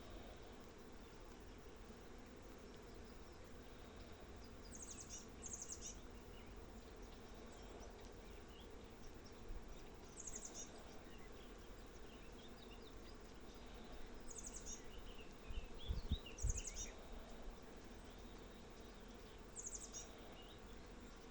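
Honeybees buzzing in a faint steady drone, with short high bird chirps coming through several times. A few low thumps sound about three-quarters of the way through.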